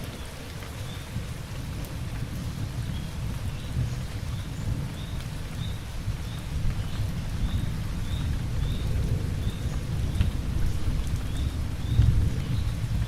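Steady rain falling with a deep rolling thunder rumble that builds and is loudest near the end. A faint short high chirp repeats through it.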